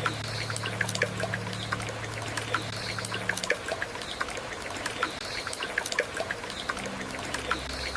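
Waterfall water trickling and splashing, with many small droplet clicks, under the last tail of a soft piano chord that dies away about three seconds in.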